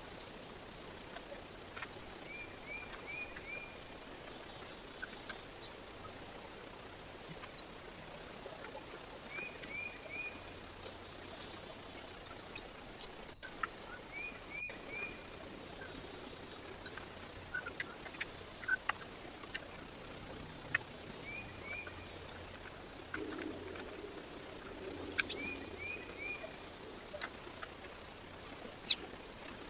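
A bird calls in short runs of three or four quick falling notes, repeated every few seconds over a steady hiss. Scattered sharp clicks and ticks come between the calls.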